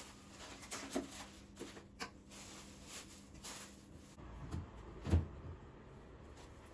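Kitchen items being handled while a refrigerator is reorganised: scattered light knocks, clicks and rustles, with one heavier thump about five seconds in. A faint steady hum stops about four seconds in.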